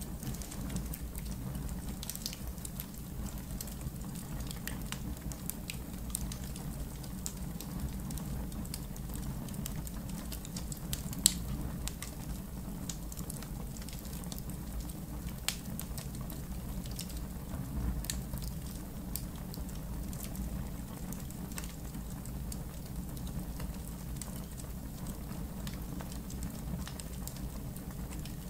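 Wood campfire in a fire pit crackling steadily, with scattered pops and snaps over a low rumble, and one sharp, louder pop about eleven seconds in.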